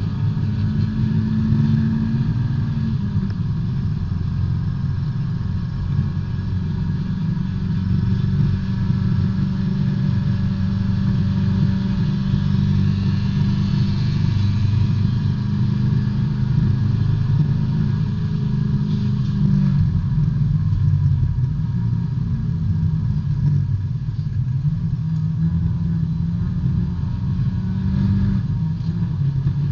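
Small four-cylinder B-Spec race car's engine heard from inside the cabin, running hard under racing load; its pitch steps down about three seconds in and again near twenty seconds, as at a shift or braking.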